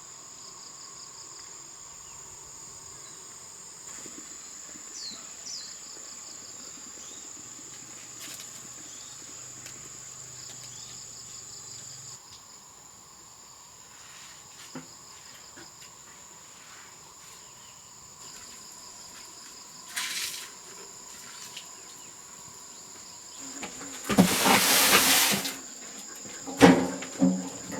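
Insects trill steadily in high, pulsing tones. Near the end comes a loud rushing, scraping noise lasting about a second and a half, followed by a few sharp knocks.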